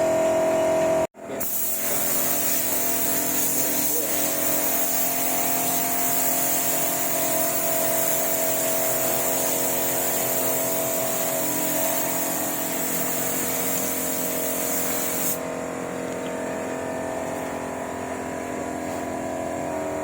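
Air spray gun hissing steadily as clear coat is sprayed onto a car bumper, over a steady machine hum; the spraying hiss stops about three-quarters of the way through while the hum runs on.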